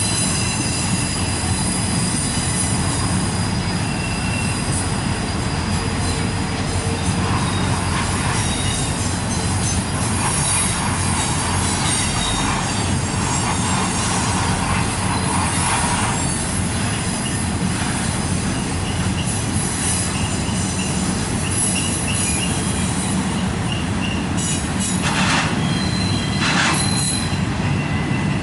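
Intermodal freight cars rolling through a sharp curve: a steady rumble of wheels on rail, with high wheel-flange squeal and a few clacks and bangs near the end.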